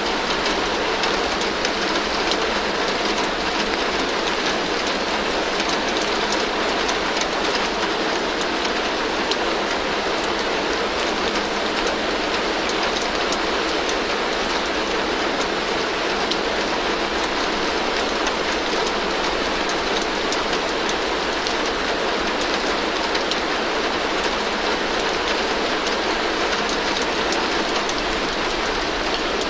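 Heavy rain drumming steadily on a tin roof, a dense, even patter of many drop hits with no breaks or changes.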